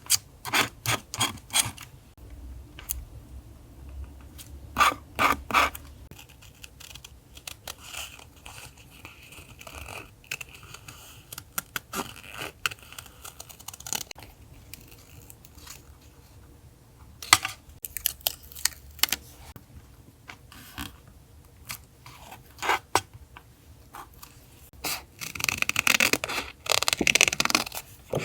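Paper and stickers being handled for a collage journal page: short, irregular rustles, scrapes and peeling sounds, busiest near the end, over a faint steady low hum.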